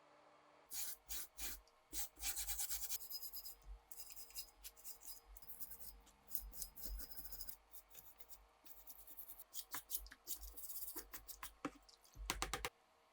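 Repeated hand-scrubbing strokes on a rifle part during rust removal, in quick runs with short pauses.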